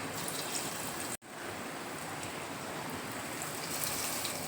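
Batter-coated stuffed ash gourd slices frying in hot oil in a kadai: a steady sizzle, which cuts out briefly about a second in.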